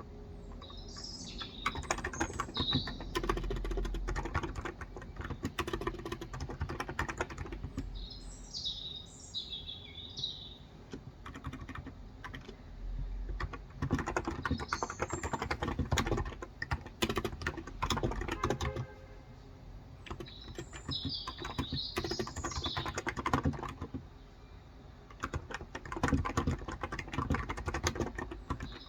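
Typing on a Cox Endeavor electro-capacitive 35g tenkeyless keyboard, in bursts of fast keystrokes with short pauses. A bird chirps in short, high phrases several times in the background.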